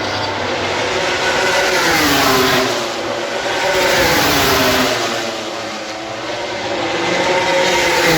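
Racing motorcycles passing at speed on the circuit, one after another, the engine note swelling as each comes by and falling in pitch as it goes away. The loudest passes come about two seconds in, about four seconds in, and near the end.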